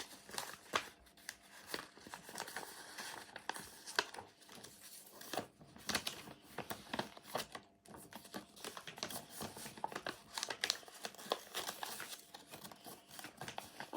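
A sheet of paper being folded and creased by hand: irregular crinkling and rustling with sharp little crackles as the folds are pressed.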